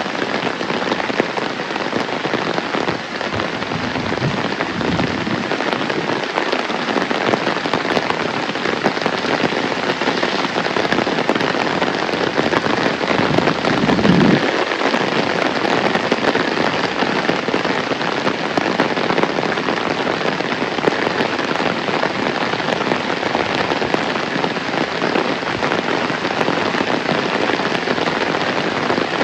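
Heavy rain falling steadily, a dense hiss with many individual drop hits. A brief low rumble swells and fades about halfway through.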